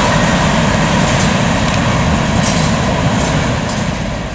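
Freight train rolling past, a steady rumble of steel wheels on the rails with faint clicks. The rumble fades toward the end as the last car goes by.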